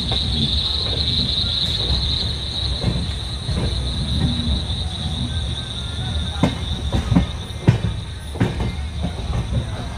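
Passenger train of LHB coaches rolling along, heard from the coach doorway: a steady low rumble of wheels on rail, then a run of sharp clacks in the second half as the wheels cross rail joints and points. A steady high chirring of crickets sounds over it, loudest at the start.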